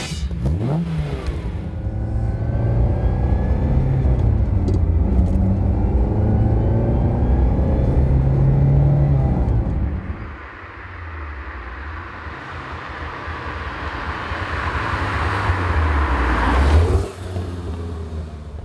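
Ferrari 308 GT4's mid-mounted V8 engine revving and accelerating, its pitch rising and falling through the gears. After a lull the car approaches and grows steadily louder, peaking as it passes about 17 seconds in, then the sound drops off abruptly.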